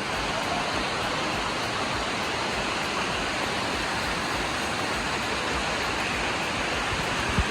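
Cascading waterfall water rushing steadily, an even hiss of falling and splashing water with no let-up.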